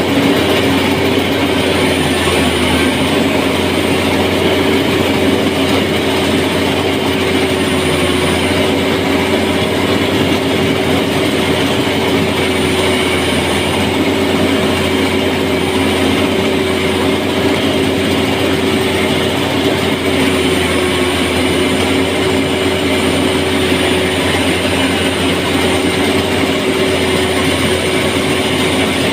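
A machine's engine running steadily at constant speed, holding a single low drone, with a faint high hiss coming and going every few seconds.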